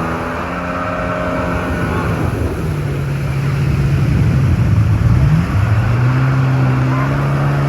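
Jet ski engine running at speed over a rushing noise; its pitch drops a little about two and a half seconds in, dips further around five seconds, then holds steady.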